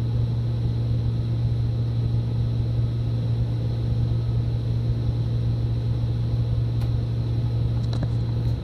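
Steady low drone of a bus engine idling, heard from inside the bus cabin.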